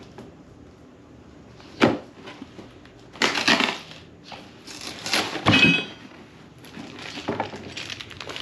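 Cardboard box and packing material being handled and pulled open, with irregular crunching and rustling and a sharp knock about two seconds in.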